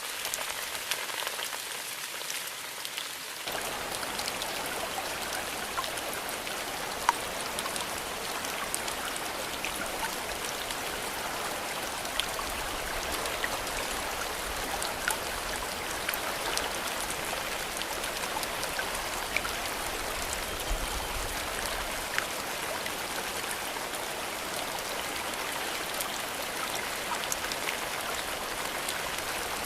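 Steady rainfall, with individual drops heard as scattered sharp ticks over an even hiss. About three and a half seconds in, a deeper layer of rain noise comes in and stays.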